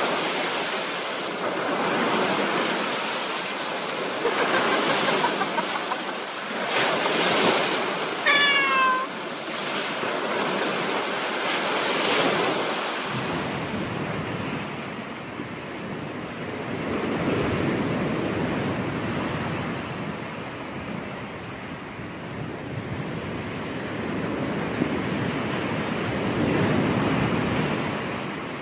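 Surf breaking and washing up a beach, a steady hiss that swells and ebbs every few seconds. About eight seconds in there is a brief high-pitched animal call.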